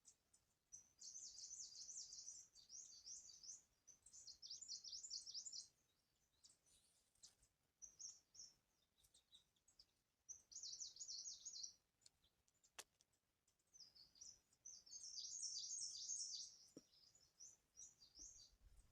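Small birds chirping in bursts of rapid, high twittering, about five phrases separated by short pauses.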